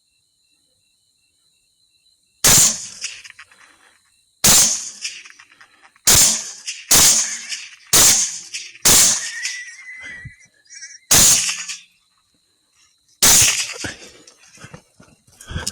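Eight rifle shots at uneven intervals, each a sharp crack that trails off in a short echo. A faint, steady, high electronic whine runs underneath.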